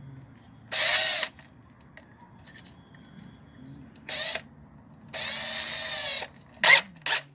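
Electric drill run in several short bursts, the longest lasting about a second, as the drill is tried out with a freshly fitted bit.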